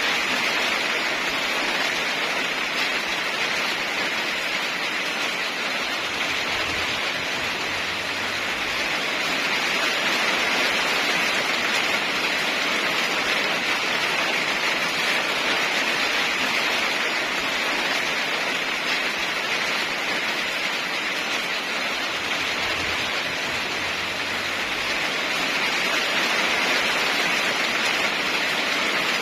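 Heavy rain falling steadily, its hiss swelling and easing slightly every several seconds.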